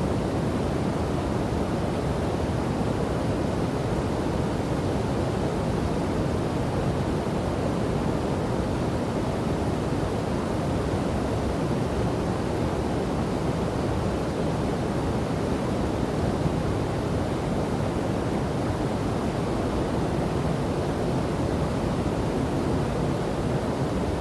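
Steady rush of a waterfall and river, an even, low-pitched roar of falling water with no change in level.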